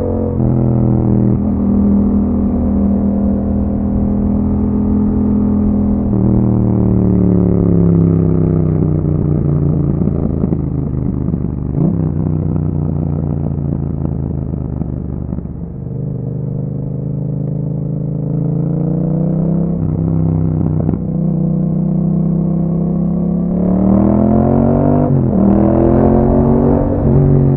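Yamaha MT-07's parallel-twin engine through an Akrapovic exhaust with a dB killer, riding on the road. The engine note rises and falls with the throttle, easing off in the middle and revving up hard near the end, with quick pitch drops at the shifts.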